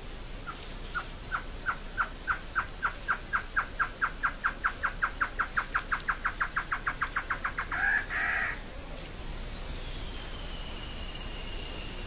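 A bird calling: a long series of short, evenly pitched notes that starts slow and speeds up steadily, ending in a louder, harsher burst. A steady high insect whine runs underneath, joined near the end by a second, lower insect tone.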